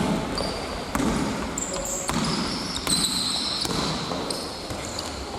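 Basketball game-court sound: a ball bouncing on the court, with short high shoe squeaks on the floor.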